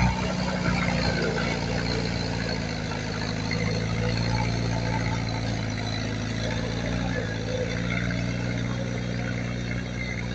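Diesel engine of heavy earthmoving equipment running steadily, a low even drone, with a brief knock right at the start.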